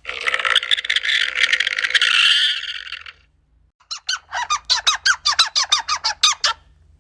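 An animal squeaking: a dense, squeaky chatter for about three seconds, then a run of short squeaky calls, each falling in pitch, about five a second.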